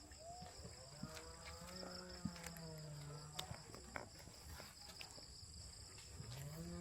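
Faint cattle lowing: one long held moo in the middle, and another that rises and holds near the end, over a steady high insect drone. Scattered small clicks, like footsteps on a path, break in here and there.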